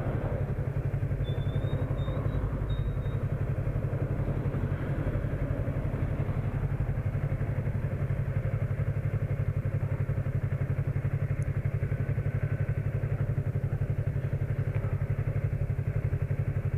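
Motorcycle engine, likely a Yamaha MT-03, idling steadily with an even beat and no revving.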